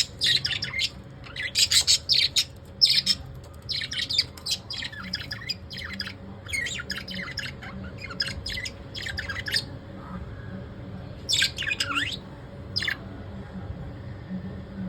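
Pet lovebirds chirping in quick high-pitched bursts for about ten seconds, then after a short pause two briefer bursts, with a faint steady hum underneath.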